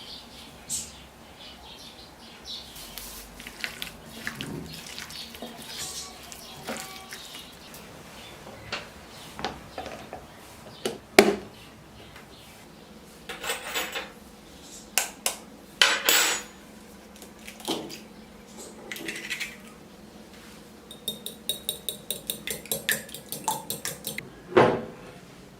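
Metal utensils clinking and knocking against pots and bowls, in scattered strikes. Near the end comes a quick run of taps, about four a second, as if something is being stirred or beaten in a bowl.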